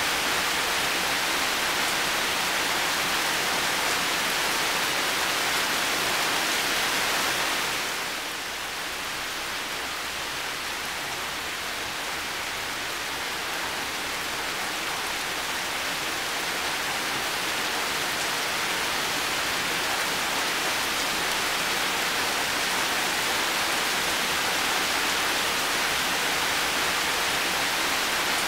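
Heavy rain falling in a steady, dense hiss. It eases slightly about eight seconds in, then gradually builds back up.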